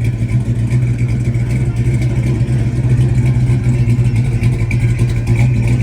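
A car engine running with a steady low hum.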